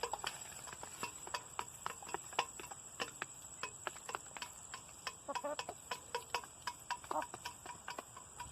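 Hens pecking at treats in feeding bowls: many sharp, irregular taps of beaks on food and bowl, with a few short soft hen calls over a steady high-pitched hum.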